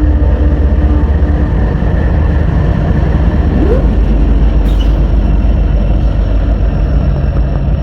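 Long Norfolk Southern freight train rolling past: a steady, loud low rumble of locomotives and cars, with a brief rising squeak about three and a half seconds in.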